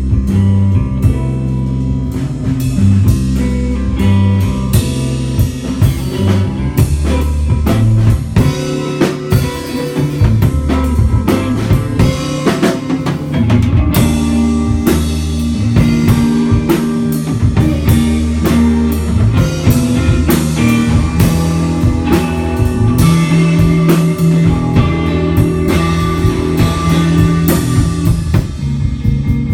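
Three-piece instrumental band playing live: electric guitar, bass guitar and drum kit, with steady drum hits under sustained bass and guitar notes.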